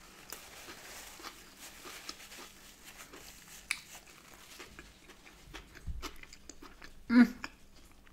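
A person chewing a mouthful of soft bagel with smoked salmon and cream cheese, making quiet wet mouth clicks and smacks. A short, loud voice sound from the eater comes just after seven seconds.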